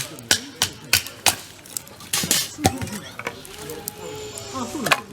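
Wood being chopped with quick sharp strikes, about three a second, which stop about a second and a half in, followed by a brief scraping noise.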